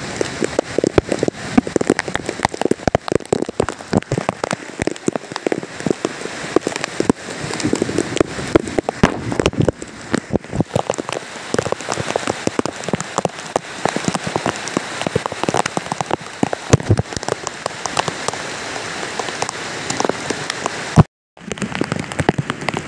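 Heavy tropical downpour: a steady rush of rain thick with many sharp, close raindrop hits. The sound cuts out for a moment a little before the end, then the rain resumes.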